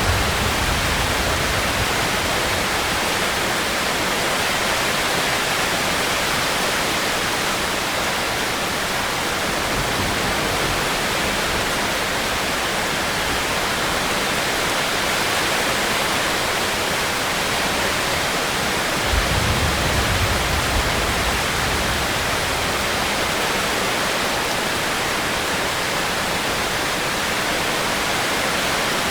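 Steady rain hissing, with a brief low rumble about nineteen seconds in and a fainter one near ten seconds.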